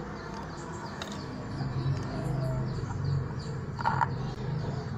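Birds chirping in quick, repeated falling notes, over a low pulsing sound that starts about a second and a half in. A single knock about four seconds in comes from the plastic aquarium pump being handled.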